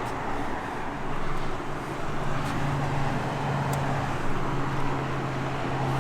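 Rooftop HVAC unit running: a steady hum of fan and machinery with a low drone that grows stronger after a second or two.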